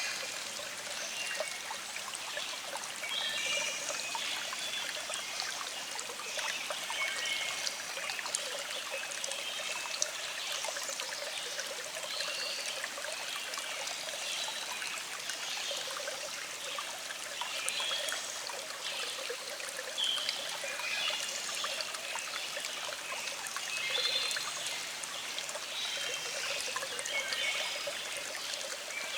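Small stream flowing over rocks, a steady trickling and burbling of water.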